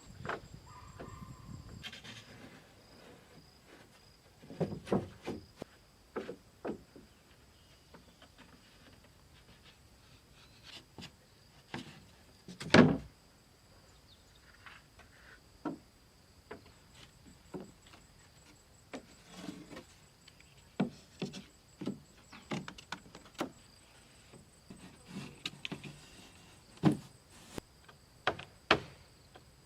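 Irregular wooden knocks and thuds from timber being handled and struck with hand tools, with one loud thump about 13 seconds in. Under them runs a faint, steady high insect drone.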